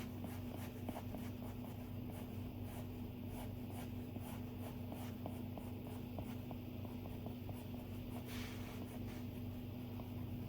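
Stylus tapping and sliding on an iPad's glass screen while drawing: many small, irregular ticks, with one longer stroke about eight seconds in, over a steady low hum.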